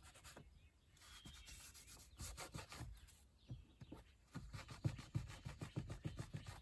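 Paper towel scrubbed in quick, short strokes over the fabric of a car door panel insert, rubbing off stray spray adhesive. Faint, with the strokes coming thicker in the second half.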